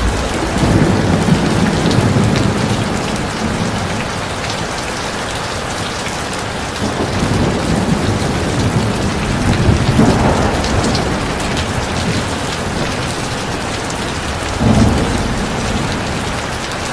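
Heavy rain pouring steadily, with low rumbles of thunder swelling and fading a few times.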